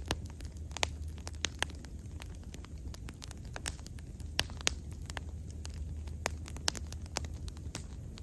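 Wood fire crackling and popping, with irregular sharp snaps of varying loudness over a steady low rumble of the flames.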